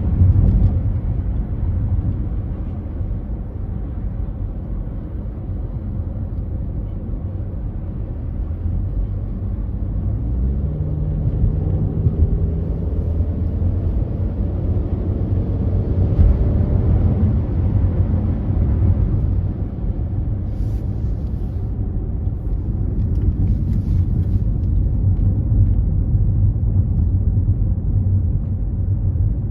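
Car driving at freeway speed: a steady low rumble of road and engine noise, with a faint droning tone that drifts slowly downward in pitch around the middle.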